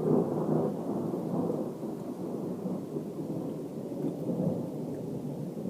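Rolling thunder rumbling overhead, loudest at the start and slowly dying away.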